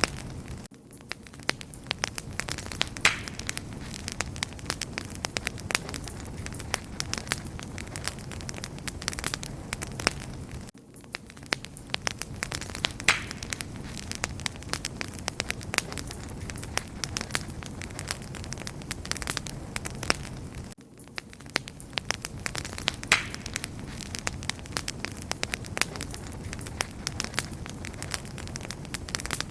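Wood fire crackling, with frequent sharp pops and snaps over the low, steady rush of the flames. The same stretch of crackling repeats about every ten seconds, each time starting after a brief dip.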